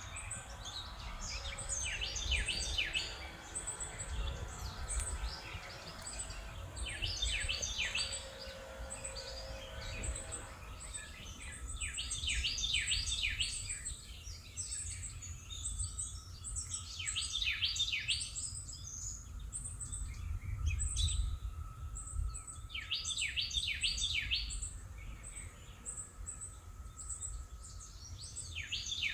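A songbird singing short phrases of rapid high notes, one phrase about every five seconds, over a low outdoor rumble.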